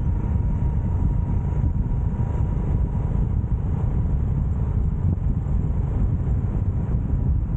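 Steady low rumble of a motorcycle being ridden, with wind buffeting the microphone and road noise, plus a faint steady whine.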